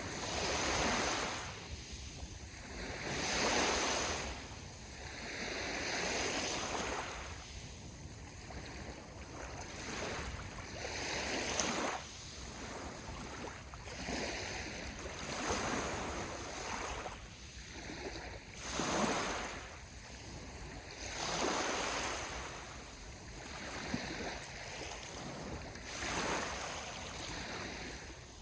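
Sea waves washing onto the shore, each wash swelling and fading every few seconds, over a steady low rumble of wind on the microphone.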